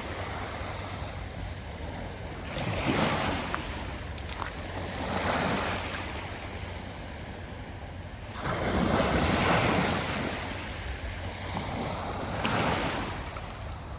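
Sea waves breaking and washing up the shore in four swells, the third the longest and loudest, over a steady rush of surf.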